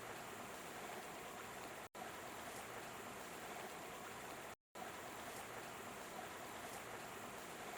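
Steady rush of flowing water, like a stream, which cuts out briefly twice.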